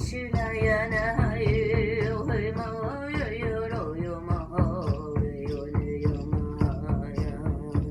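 Steady shamanic drumming, about four beats a second, under a wordless sung chant with a wavering, vibrato-laden voice that fades out near the end.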